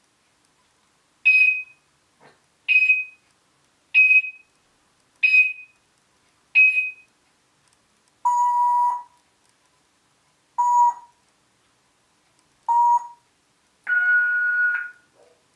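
African grey parrot imitating electronic beeps. It gives five short, high beeps about a second and a half apart, then three lower, longer beeps, and a last beep a little higher near the end.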